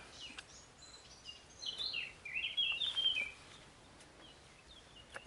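A small bird chirping faintly: a quick run of short high notes about a second and a half in, lasting under two seconds, over quiet outdoor background.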